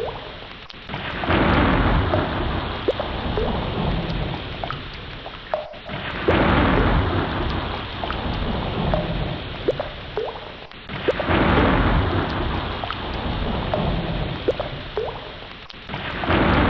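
Ocean water swelling and falling back in a regular surge about every five seconds, with short faint blips scattered through it.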